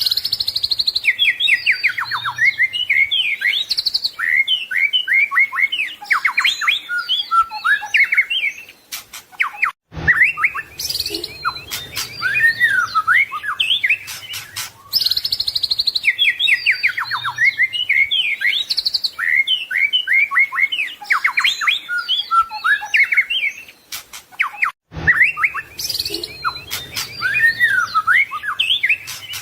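White-rumped shama (murai batu) singing a fast, varied song of whistles, trills and chirps. The same run of phrases repeats about every fifteen seconds, with brief breaks between runs.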